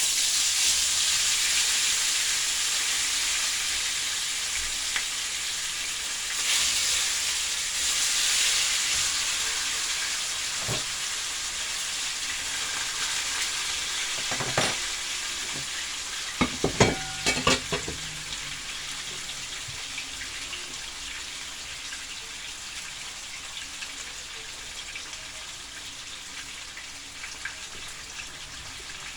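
Parrot fish frying in hot oil in a pot: a steady sizzle that slowly dies down. A few short knocks of a utensil come about halfway through.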